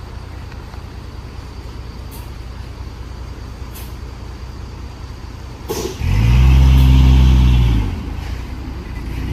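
Truck engine running steadily at low revs, then revved hard for about two seconds, its pitch rising and falling back, before returning to the steady run.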